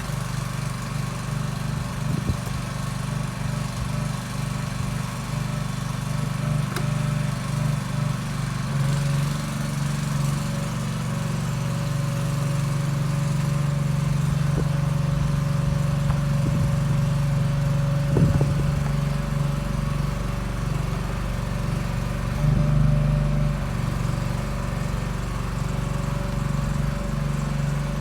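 The engine of a hydraulic-powered BBQ truck running steadily while it drives the hydraulics on a test drive. Its pitch steps up about nine seconds in and shifts again later on.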